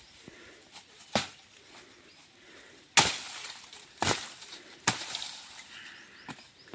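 Five sharp, cracking chopping blows at uneven intervals of about a second, each ringing off briefly, the loudest about three seconds in: a blade hacking into bamboo to cut it.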